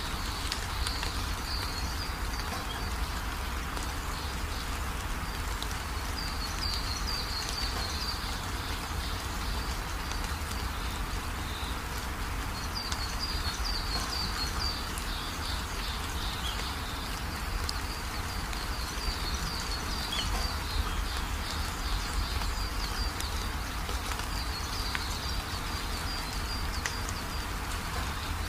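Steady rain on a corrugated metal roof, with a stream of runoff pouring off the roof edge. High chirping trills come through now and then, several times over.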